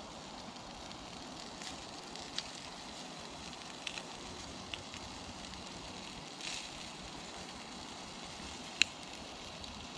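Burgers and sliced onions frying on a cast iron griddle, a low steady sizzle. A spatula knocks lightly against the griddle a few times, most sharply near the end.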